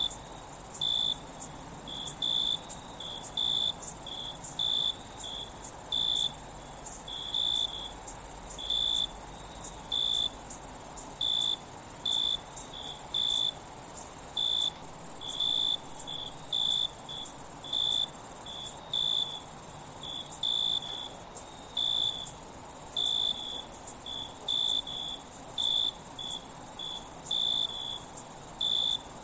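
Night insect chorus: a steady, very high-pitched trill from many insects, with a nearer cricket chirping in short pulses a little more than once a second.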